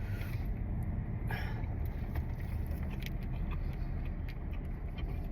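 Low, steady vehicle rumble heard from inside a parked car's cabin, with a few faint light clicks from handling and eating food.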